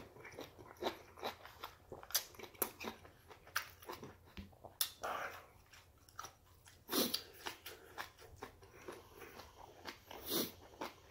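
Close-miked chewing of a mouthful of yukgaejang solids (green onion and beef): many soft wet mouth clicks and smacks. A few louder breaths come through the nose about 5, 7 and 10 seconds in.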